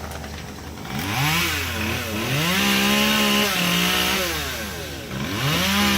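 Cicada killer wasp's wings buzzing as it strains to lift a paralysed cicada, in three bouts whose pitch rises, holds and falls.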